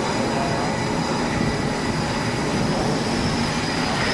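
Steady loud rumble and rush of engine and wind noise from a light plane and a pickup truck running together at speed, with a thin high steady whine over it.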